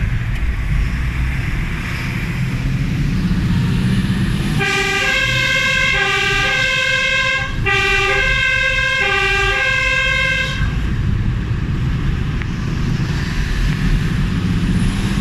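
Fire engine under way, its engine and road noise rumbling steadily. About four and a half seconds in, its two-tone horn sounds for about six seconds, alternating a lower and a higher note about four times, then stops.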